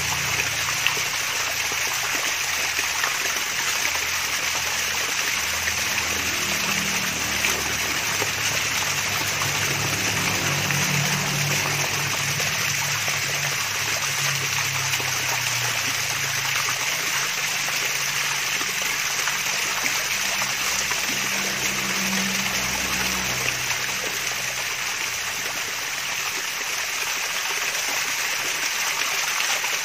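Water running over a small waterfall, a steady splashing and trickling rush that keeps up evenly throughout.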